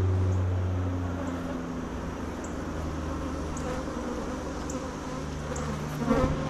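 Honeybees buzzing around an opened hive, a steady hum, with a brief clatter about six seconds in.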